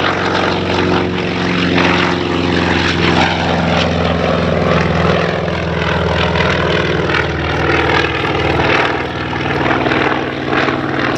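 Grumman F6F-5 Hellcat's 18-cylinder Pratt & Whitney R-2800 radial engine running loud in flight. Its pitch drops about halfway through as it passes.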